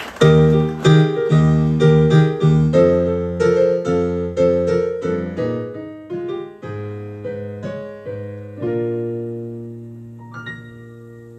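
Piano-like keyboard playing a run of struck chords, about two a second, each fading after the strike. Near the end it settles on one held chord that slowly dies away.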